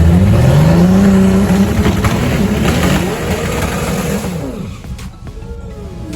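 A race car's engine accelerating hard, its pitch climbing over the first second, then fading over the next few seconds as the car pulls away.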